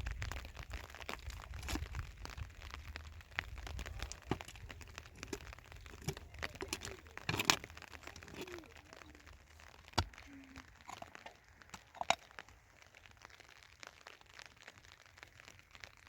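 Plastic sheeting crinkling and rustling as it is handled, with scattered sharp knocks and snaps, the loudest about halfway through and twice more later.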